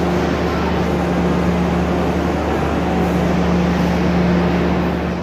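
Loud, steady running noise of a diesel-hauled passenger train in motion: a continuous rumble with a steady low engine hum, fading away at the very end.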